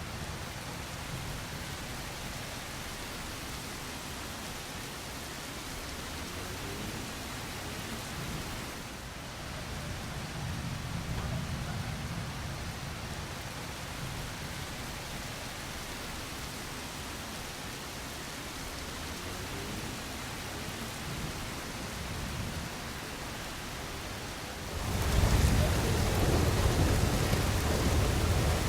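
Thunderstorm rain falling steadily, with low rolling thunder. About three-quarters of the way through it suddenly grows louder and heavier, with a deep rumble, and stays so.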